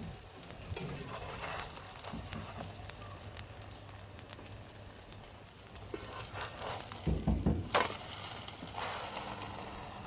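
Msemen flatbread sizzling and crackling as it cooks over a charcoal kanoun brazier. A few low knocks and a sharp click come about seven seconds in.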